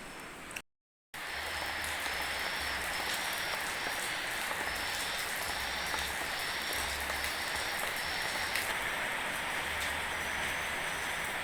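A sudden cut into steady, rain-like rushing noise, with a faint high tone pulsing on and off about once a second.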